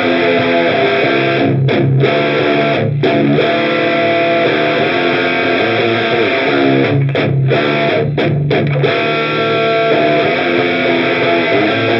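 Electric guitar played through an Olinthus Cicada mini overdrive pedal: overdriven chords and riffs ringing out, with a few short breaks between phrases.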